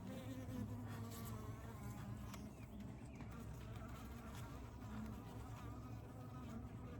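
Honeybees buzzing around an open hive: a faint, steady drone of many wings, with single bees' buzz wavering in pitch as they fly close.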